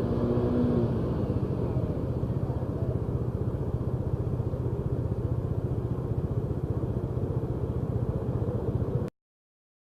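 A vehicle engine running steadily with road rumble, a fast, even low pulsing that cuts off abruptly about nine seconds in.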